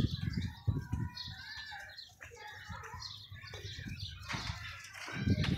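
Birds chirping and calling, with low thumping rumbles near the start and again about five seconds in.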